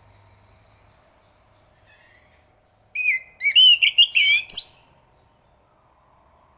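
Chestnut-capped thrush singing one short, loud phrase of quick whistled notes that glide up and down, about three seconds in and lasting under two seconds.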